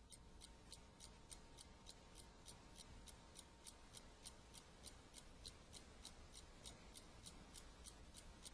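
Faint, very regular mechanical ticking, a little over three ticks a second, over low room hiss.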